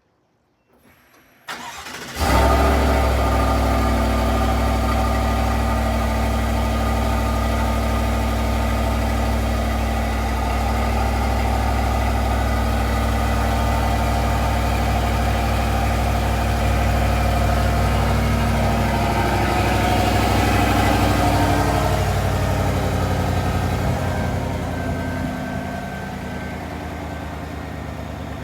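2024 GMC Sierra Denali's 5.3-litre V8 with dual exhaust cold-starting: it cranks and catches about two seconds in, then runs at a loud, steady fast idle. The idle drops and gets quieter from about two-thirds of the way through as the cold-start idle comes down.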